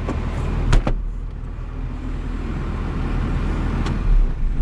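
Tractor diesel engine idling with a steady low rumble, with a few sharp clicks about a second in and again near the end.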